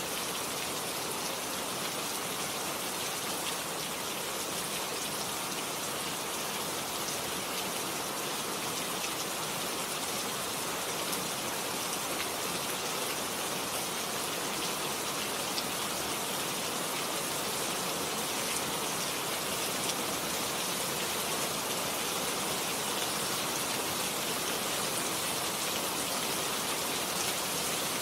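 Steady rain falling, with individual drops ticking here and there over an even hiss; no thunder.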